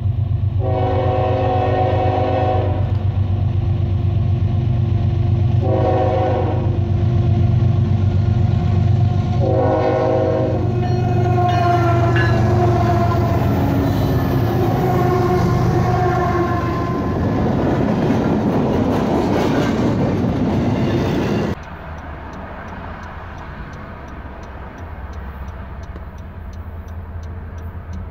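Diesel freight locomotive sounding its horn three times as it approaches: one long blast, then two short ones. Then the locomotives and double-stack cars pass close by with a loud engine rumble and wheel noise. About 21 seconds in, the sound drops suddenly to a quieter steady rumble.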